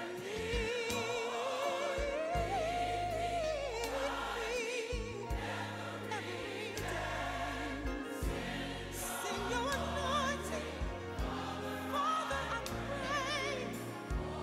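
Choral music with sung voices and vibrato over a steady bass accompaniment, in a gospel style.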